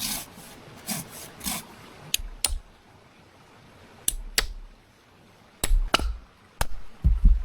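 Hand work on wood: a few scraping strokes, then a string of sharp clicks and knocks, several with a dull thump, as sticks are handled and knocked into place. The loudest knocks come near the end.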